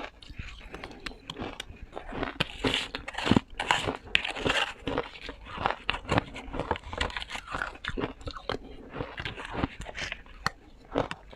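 Ice being bitten and chewed close to the microphone: a rapid, irregular run of crisp crunches, with a few louder bites a few seconds in.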